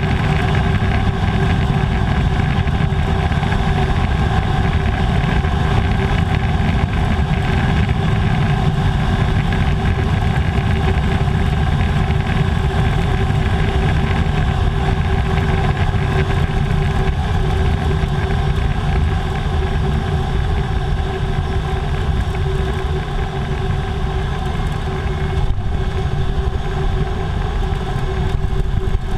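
Air Tractor AT-502's Pratt & Whitney PT6A turboprop engine and propeller running steadily, a constant drone with several fixed tones over a heavy low rumble.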